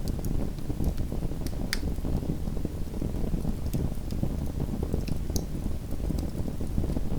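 Small wood fire burning in a fireplace: a steady low rumble of the flames with scattered sharp crackles and pops, the clearest about two seconds in and near four and five and a half seconds.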